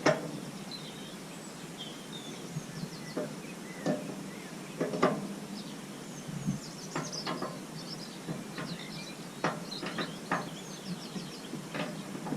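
Irregular sharp clicks and knocks of tools on the roller's metal frame, about ten in all, loudest at the very start and around five seconds in. Small birds chirp faintly throughout.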